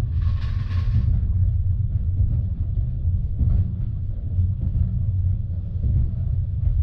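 A moving passenger train's steady low rumble, with a short hiss in the first second and a few faint ticks.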